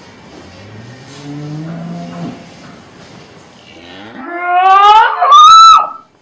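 Cow mooing: a low moo, then a much louder, high-pitched call a couple of seconds later that climbs in pitch and cuts off suddenly.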